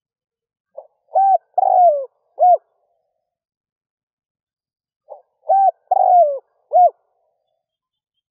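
Spotted dove (Streptopelia chinensis) cooing twice, the same song phrase each time: a soft short note, then three coos, the middle one longer and falling in pitch.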